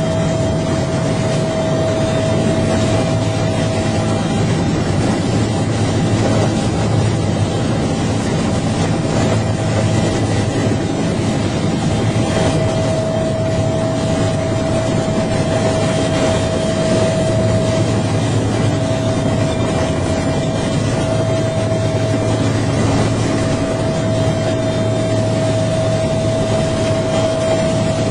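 Bell UH-1H helicopter running steadily: dense rotor and engine rumble with a steady high tone over it.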